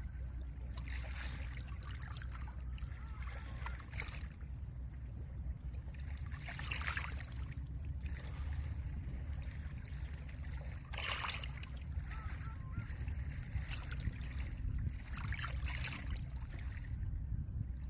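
Small lake waves washing up over a pebble beach, a hissing, rattling rush about every three to four seconds, over a steady low rumble of wind.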